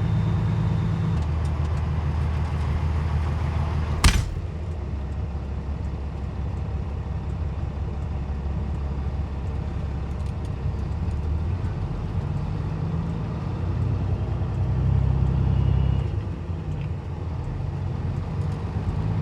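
Peterbilt 379's Cat C-15 diesel engine running, its pitch stepping up and down several times as the rev changes. One sharp click about four seconds in.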